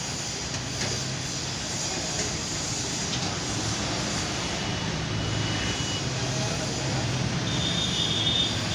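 Tractor engine running steadily, a low even hum throughout, with a thin high whistle-like tone in the last second.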